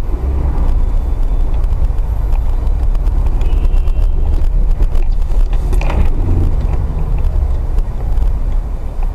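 A motor vehicle driving, its engine and road noise making a steady loud low rumble, with a few faint clicks and a brief swell about six seconds in.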